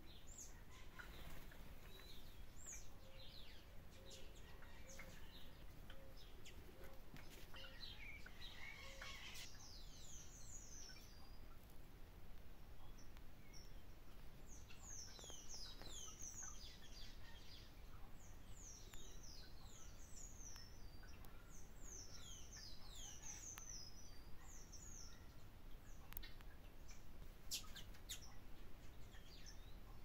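Small birds chirping: quick runs of short, high, falling chirps, thickest through the middle, over a faint steady background noise. Early on a soft low note repeats about twice a second.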